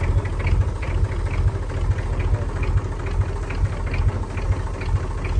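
A large vehicle engine idling steadily, its low pulsing note dominating.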